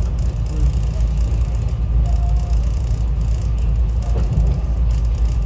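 SEPTA Regional Rail train in motion, heard from inside the passenger car: a steady, loud low rumble of the running train.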